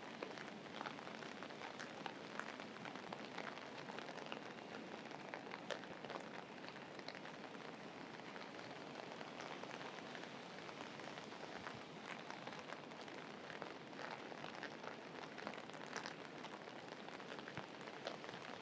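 Steady rain falling, with many small, sharp drop impacts scattered through it.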